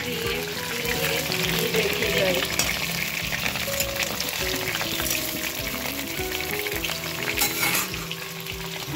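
Whole peeled potatoes sizzling as they shallow-fry in hot oil in a kadai, with a continuous crackle, while a steel spoon turns them over in the pan.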